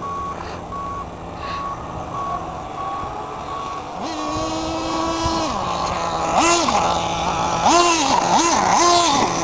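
Small nitro model engine idling under a steady electronic beeping of about two beeps a second. About four seconds in, the beeping stops and the engine is revved up, held, and dropped back, then blipped up and down several times.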